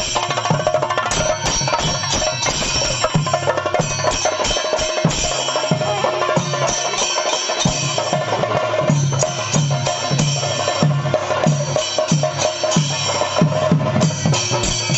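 Percussion music: dense clattering percussion with a steady low drumbeat, about two beats a second, that settles in from about six seconds in.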